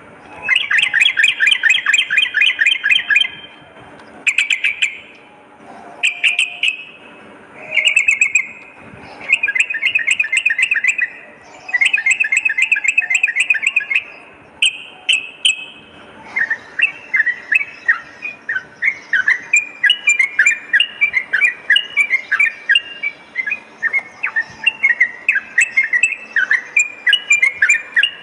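Yellow-vented bulbul song: loud bursts of rapid trilled chattering, each one to three seconds long with short pauses between. About halfway through it changes to an unbroken run of short, quick, bubbly phrases.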